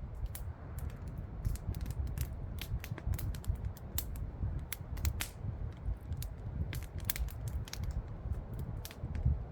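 Wood campfire crackling, with many irregular sharp pops and snaps several times a second over a steady low rumble.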